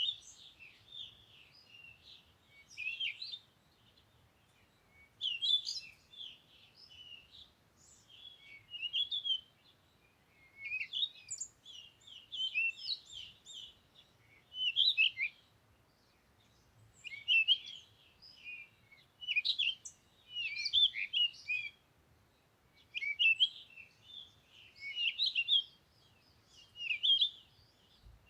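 Songbird song: bursts of rapid, high chirps and twitters about a second long, repeating roughly every two seconds.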